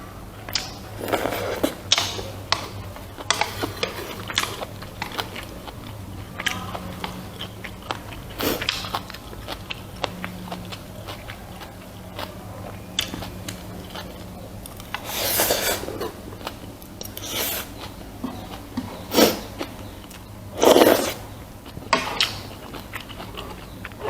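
Close-miked eating: a person chewing and biting rice and pork, with irregular wet mouth clicks and smacks, several louder ones a little past the middle. A steady low hum runs underneath.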